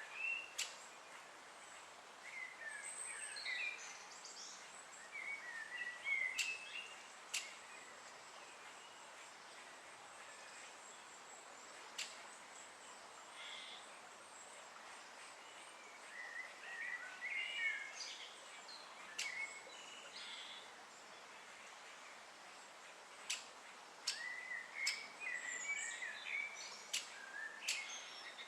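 Great spotted woodpecker chick's begging chirps in repeated bursts at the nest, with occasional sharp single clicks in between and quieter spells with only faint background noise.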